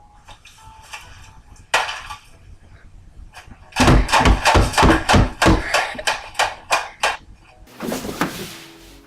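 Loud banging on a hard surface: one sharp bang, then a fast run of about a dozen heavy hits over three seconds, followed by a short burst of rushing noise.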